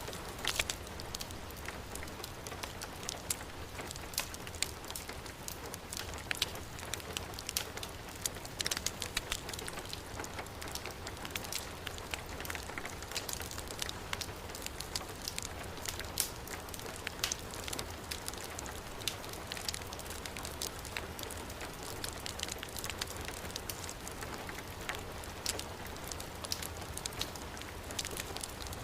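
Heavy rain falling steadily on a surface, with a wood fire crackling in sharp irregular pops and snaps over it.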